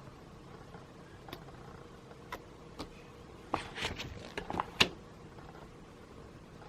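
A few sharp clicks, then a quick run of clicks and light knocks about three and a half to five seconds in, the loudest near the end of the run.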